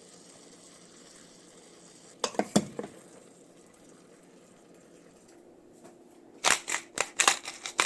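Cooking utensils clicking and clattering against a pan and dishes while food is dished up: a few sharp clacks a little after two seconds in and a quicker run of them near the end, over a faint steady hiss.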